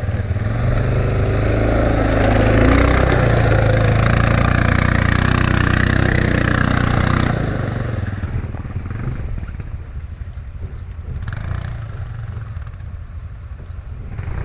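ATV engine revving hard under load as the quad pushes through deep water. About eight seconds in it eases off to a lower, quieter running.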